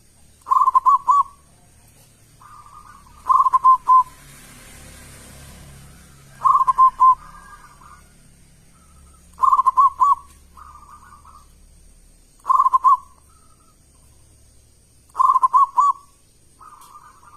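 Zebra dove (perkutut) cooing: a short phrase of three or four quick notes, repeated six times about every three seconds, several of them followed by a softer trailing note.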